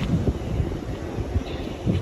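Train rumbling along a platform, with wind buffeting the microphone.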